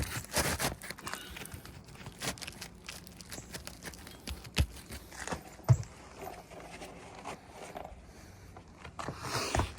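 Irregular scraping and rustling with scattered knocks, two of them louder and sharp in the middle.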